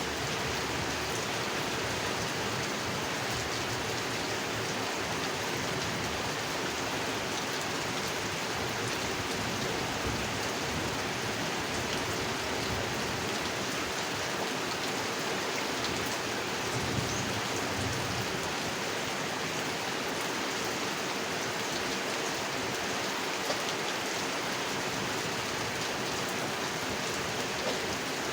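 Steady rain falling on a pond, an even hiss of rain with a few louder single drops standing out.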